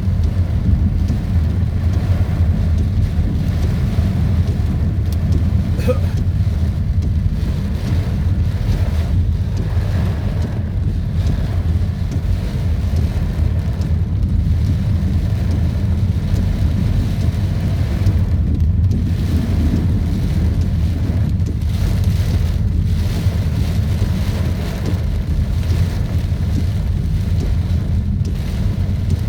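Heavy rain in strong wind, a steady noise with a deep, constant low rumble underneath.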